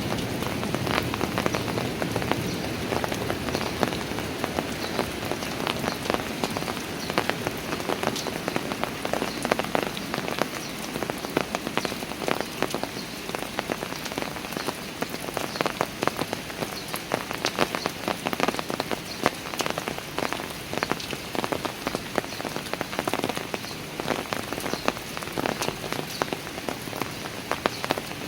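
Steady rain falling on hard surfaces, with a dense patter of individual drops hitting close by.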